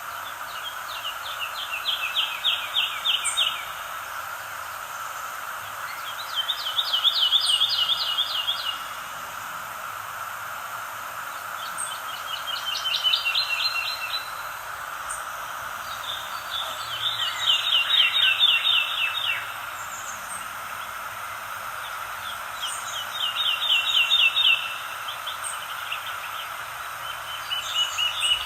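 A songbird singing the same rapid trill over and over: about two seconds of quick, falling notes, repeated roughly every five seconds, over a steady background hiss.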